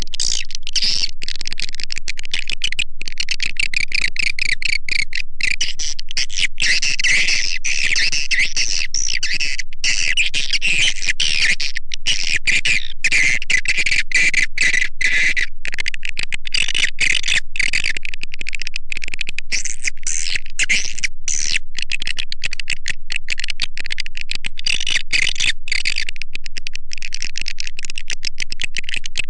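Swiftlet call recording used to lure edible-nest swiftlets into a bird house: a dense, continuous stream of rapid high twittering and clicking chirps.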